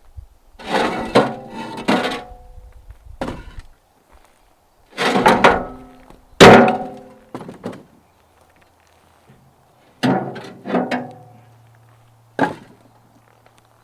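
Blocks being set down and stacked by hand on a pallet: a series of sharp knocks and clacks, each ringing briefly, coming at irregular intervals a second or few apart.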